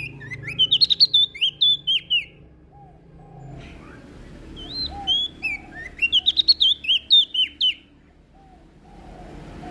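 Prenjak daun songbird singing two quick bursts of twittering song, each about two seconds long, with a pause between them. Softer, lower single notes come in during the gaps.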